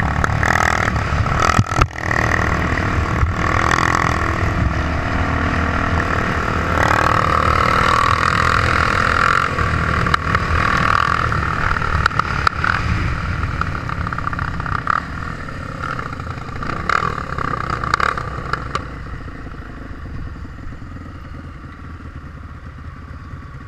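Trail motorcycle engine running under way, with several sharp clattering knocks. It grows quieter over the last few seconds.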